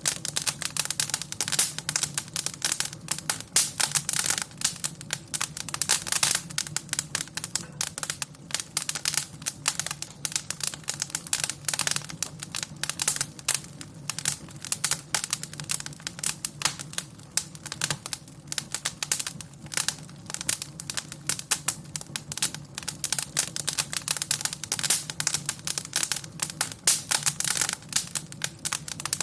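Wood fire in a fireplace crackling and popping, dense irregular snaps throughout, over a steady low hum.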